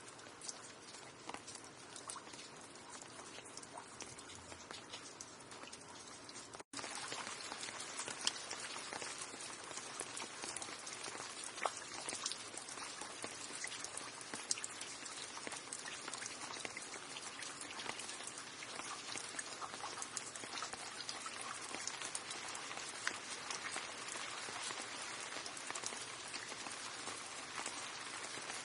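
Steady rain, with many individual drops heard as sharp ticks on a hard surface. About seven seconds in it cuts out for an instant and comes back louder.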